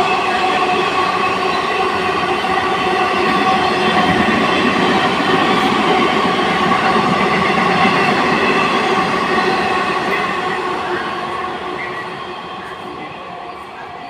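Indian Railways express train running past at speed: a loud, steady rush of wheels on rails with steady tones running through it, fading away over the last few seconds as it recedes.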